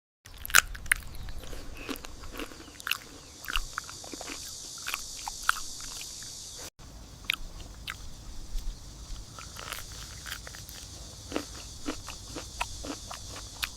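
Close crunching and chewing of food: a string of irregular crisp bites and crunches over a steady high hiss.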